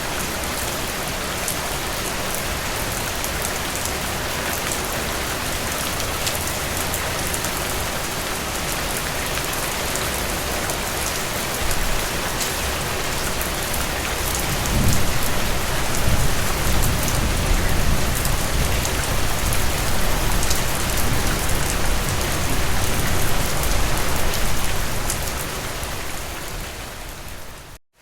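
Heavy rain falling steadily on a surface, with fine drop ticks. About halfway through, a low rumble of thunder rolls for around ten seconds. Just before the end the sound fades down to a brief gap and comes back in.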